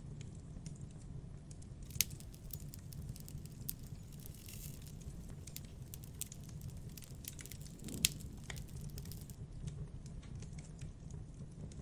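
Campfire crackling: scattered small snaps over a steady low rumble, with two sharp pops, about two seconds in and again about eight seconds in.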